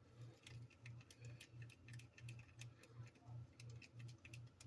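Near silence: a faint low hum pulsing evenly about three times a second, with scattered faint clicks.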